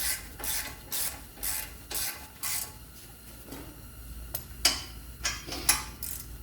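Hand ratchet wrench clicking in even strokes, about two a second, as it runs bolts down on the brake assembly. Then, after a short pause, a few sharp louder clicks as the bolts are snugged up.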